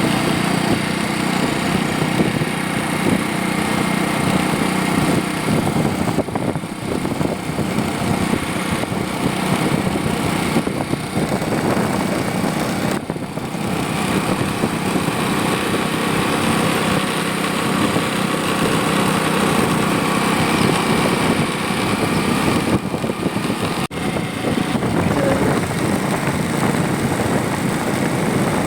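A vehicle running steadily, a continuous drone of machine and rolling noise with a faint whine, briefly cut off for an instant near the end.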